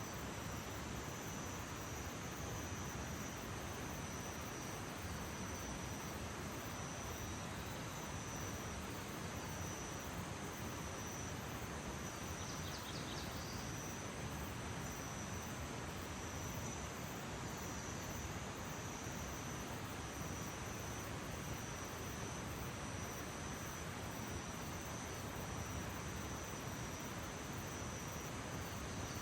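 Outdoor early-morning ambience: insects chirring steadily in one high, unbroken tone over an even background hiss. A short high chirp comes about twelve seconds in.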